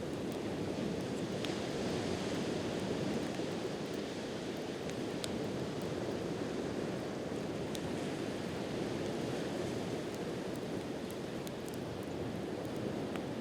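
Wood fire crackling with a few sharp pops, over a steady wash of ocean surf.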